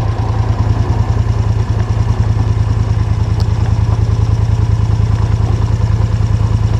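ATV engine running steadily under way, with a fast, even pulse.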